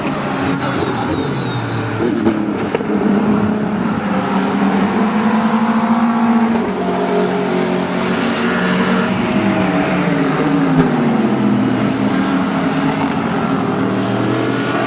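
Several Dallara F312 Formula 3 race cars' engines at speed, their overlapping engine notes rising and falling as they go by.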